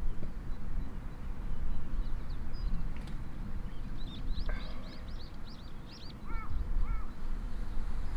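Wild birds calling outdoors: a quick run of high chirps about halfway through, then two short, lower calls near the end, over a low steady rumble.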